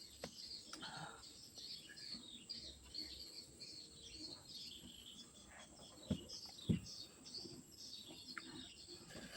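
Birds chirping softly in the background, many short high chirps throughout, with two brief soft knocks about six and seven seconds in.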